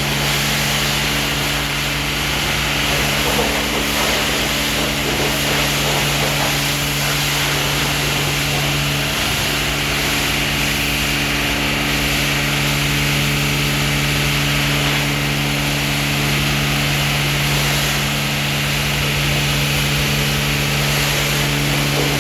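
Automatic car wash tunnel machinery running steadily: a constant motor hum with an even hiss over it.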